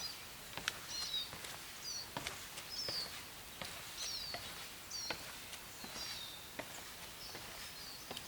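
Small songbirds giving short, high chirping calls over and over, with a person's irregular footsteps clicking beneath them.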